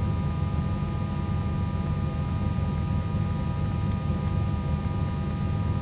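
The twin six-cylinder Continental piston engines of a 1974 Cessna 310Q, throttled back during the landing rollout and heard inside the cockpit. They make a steady low drone with a row of even tones above it.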